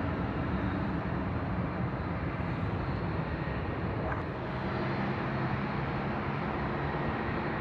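Jet airliner engine noise, a steady, even sound with a faint low hum and no sudden events.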